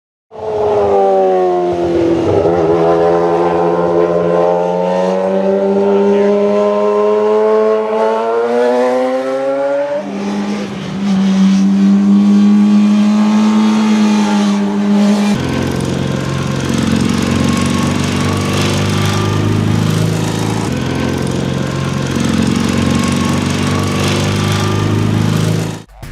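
Motorcycle engine running at high revs. Its pitch falls over the first couple of seconds and then climbs steadily, with sudden jumps about ten and fifteen seconds in, and it cuts off abruptly near the end.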